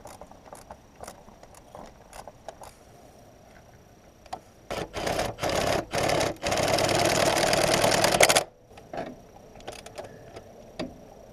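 A hand-held power tool, triggered in several short bursts and then run for about two seconds before it stops suddenly, with a fast rattle through it.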